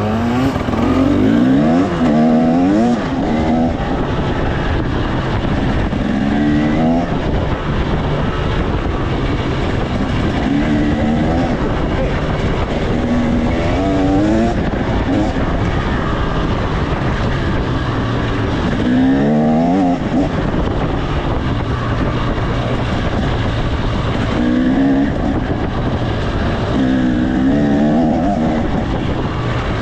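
2025 KTM 300 XC's two-stroke single-cylinder engine, ridden and repeatedly revving up, its pitch climbing and dropping back every few seconds.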